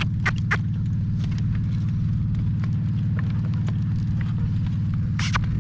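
A motor drones loud and steady with a low hum, with a few sharp hoof clicks from the horse walking.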